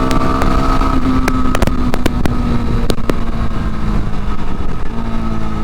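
Yezdi Scrambler's 334 cc single-cylinder engine pulling under way, heard from the moving bike with heavy wind rumble on the microphone. The engine note drifts slightly down, then steps up about five seconds in.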